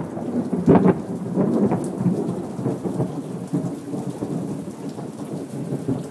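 Thunder rumbling during rain: a loud peal just under a second in that slowly dies away over the steady patter of the rain.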